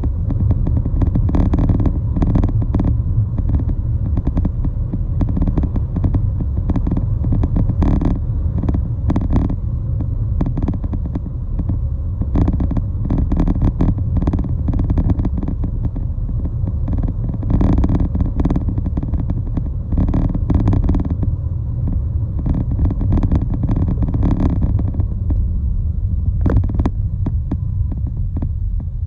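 A continuous low rumble of a moving vehicle, with irregular brief flutters throughout.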